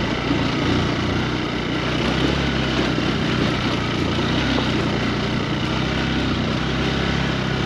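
Motorcycle engine running steadily while riding, its low hum stepping slightly up and down in pitch.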